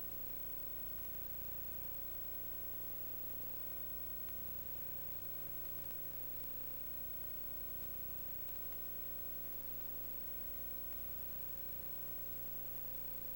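Steady hiss and electrical hum with a thin constant tone, unchanging throughout: the background noise of the recording, with no other sound.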